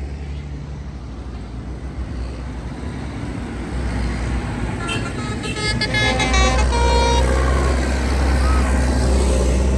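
Tractor engines running as tractors pass in procession, a low rumble that grows louder about six seconds in as one comes close. A few horn toots sound in the middle of it.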